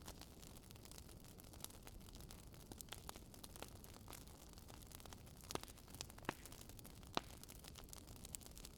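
Wood fire burning in a fireplace, crackling faintly with scattered small snaps and a few sharper pops in the second half.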